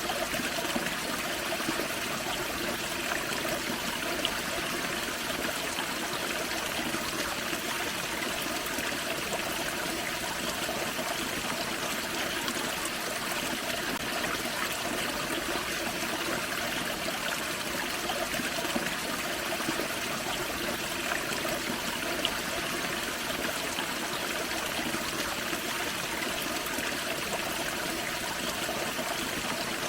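Small forest waterfall and creek, water splashing and trickling over rocks in a steady rush.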